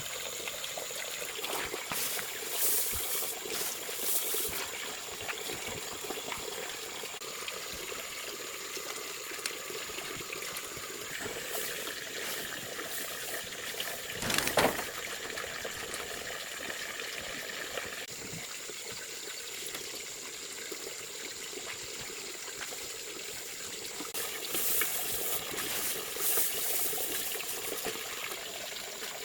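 Water trickling and splashing steadily, with louder splashy stretches near the start and near the end, and one brief sharp sound about halfway through.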